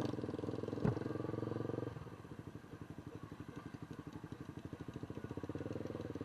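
A small engine running with a fast, even pulsing; it eases off about two seconds in and slowly picks up again, with a single knock just before that.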